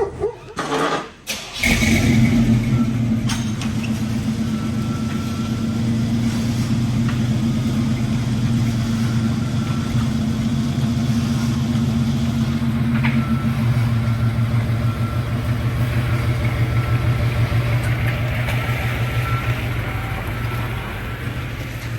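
1989 Chevy K5 Blazer engine running steadily and evenly with its new water pump fitted, after a brief break in the sound about a second in.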